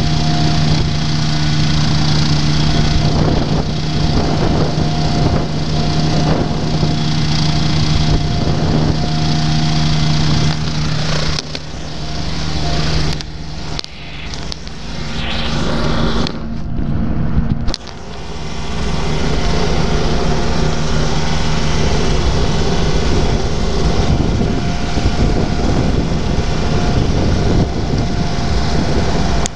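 Rotax engine of a Quad City Challenger ultralight running with a steady note, with wind rushing over the open cockpit. About eleven seconds in the note breaks up and the sound dips several times. About eighteen seconds in a louder, rougher rushing sound takes over.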